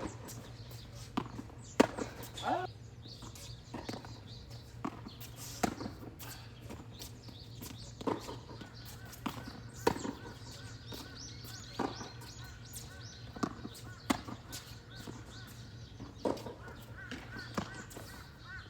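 Tennis rally: sharp pops of rackets striking the ball and the ball bouncing, about one every second or so, over a steady low hum.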